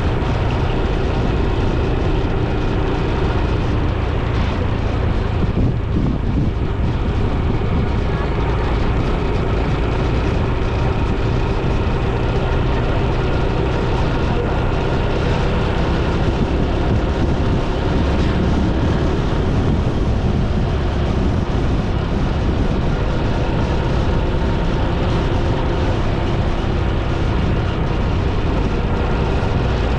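Motorcycle engine running at a steady cruise, with a constant rush of wind and road noise over it and a slowly drifting engine hum.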